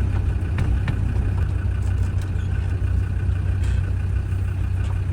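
Land Rover Defender running on the road, heard from inside the cab: a steady low engine and road rumble with a few light rattles.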